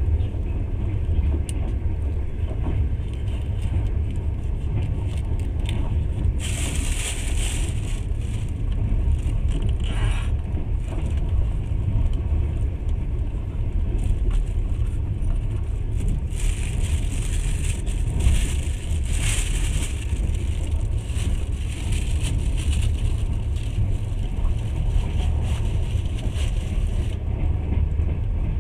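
Passenger train running at speed: a steady low rumble of wheels on rails, heard from inside the carriage. A higher hiss rises over it for a few seconds about a quarter of the way in, and again for most of the second half.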